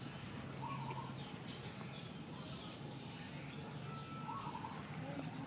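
Birds chirping faintly in the background: a few short calls, clearest about a second in and about four seconds in, over a low steady hum.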